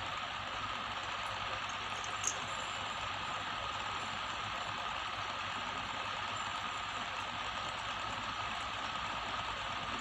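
Water running steadily, with one small click a little over two seconds in.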